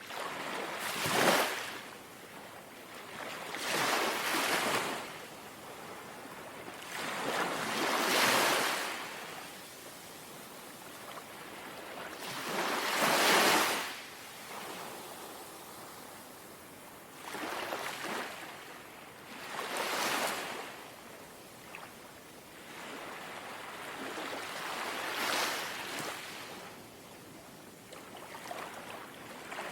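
Small, gentle sea waves lapping ashore, about eight swells in all, one washing in every few seconds and each rising and fading away.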